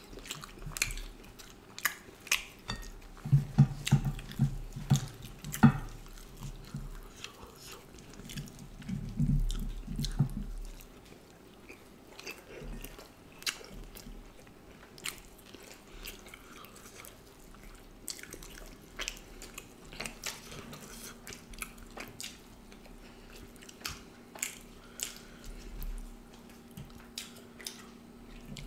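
Close-miked eating sounds: chewing and wet mouth clicks and smacks as duck curry and rice-flour roti are eaten by hand, with soft squishes of fingers in the curry. The chewing is heaviest about three to six seconds in and again around nine to ten seconds, with scattered clicks the rest of the time.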